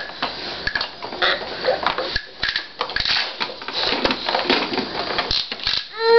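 Hard plastic toys on a baby's activity saucer clicking, clacking and rattling irregularly as they are knocked and handled.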